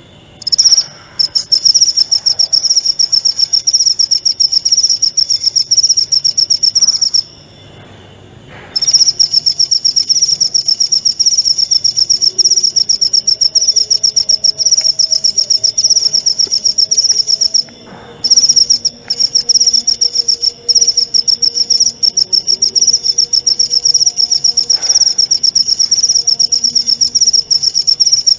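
Cricket calling in long, loud, high-pitched trills of rapid pulses, breaking off briefly twice.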